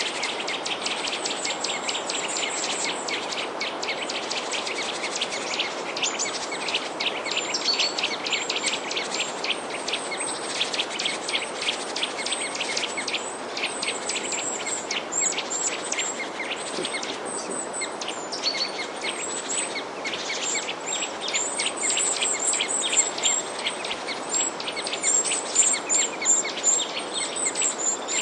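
A flock of small birds chirping, many quick high chirps overlapping with hardly a break, over a steady background hiss; a few louder chirps stand out near the end.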